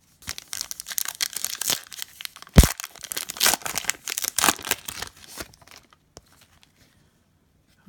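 A trading card pack's plastic wrapper being torn open and crinkled by hand, with one sharp thump about two and a half seconds in; the crackling stops about two seconds before the end.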